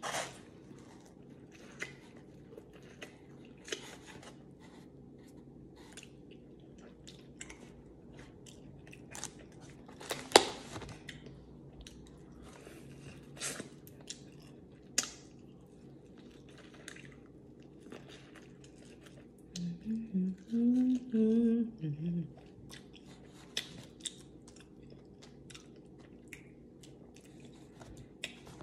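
Close-miked eating sounds: wet chewing, lip smacks and finger licking as a person eats a seafood boil with corn on the cob, with one louder smack about ten seconds in. About two-thirds of the way through, a few seconds of hummed, wordless voice.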